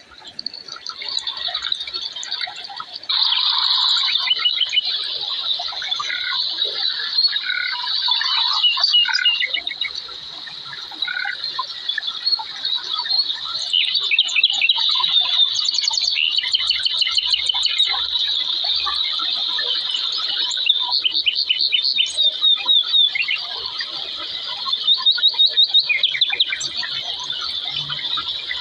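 Birds chirping and calling, with rapid trills here and there, over a constant high-pitched background drone.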